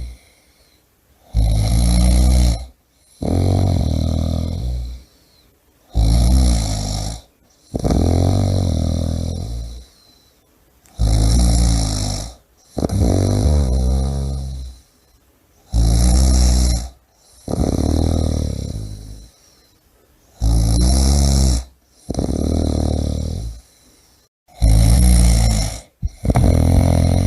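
A person snoring loudly and rhythmically. Each breath gives a short snore followed closely by a longer one that fades out, and the pair comes back about every five seconds, six times over.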